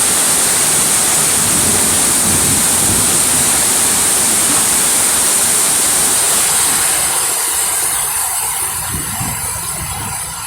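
Heavy rain pouring down in strong wind, a dense steady hiss that begins to ease and grow quieter in the last few seconds.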